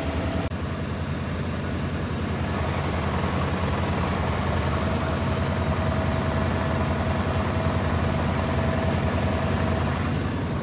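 1990 Oldsmobile Custom Cruiser's V8 engine idling steadily with an even low pulse.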